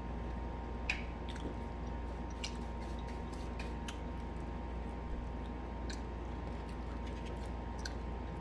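Chewing and biting into fried food, with scattered small crunches and mouth clicks over a steady background hum.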